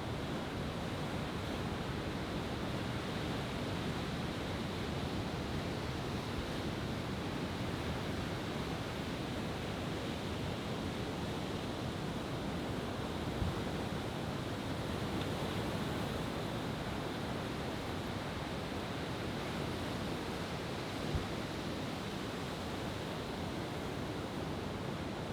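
Steady wash of ocean surf breaking on a beach, with two brief faint clicks about halfway through and near the end.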